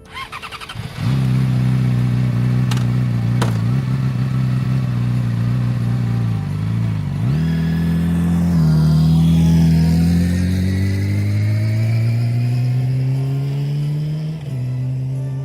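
Yamaha YZF R6 engine pulling under acceleration: it comes in suddenly about a second in, jumps up in pitch midway, climbs steadily, then drops at an upshift near the end. Two short clicks sound early on top of it.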